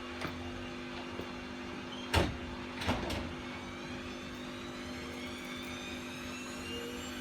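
Bosch WAK28260 washing machine running, with a steady hum and a motor whine that rises slowly in pitch from about halfway as the drum speeds up. Two sharp knocks come about two and three seconds in. The machine is suspected of worn drum bearings.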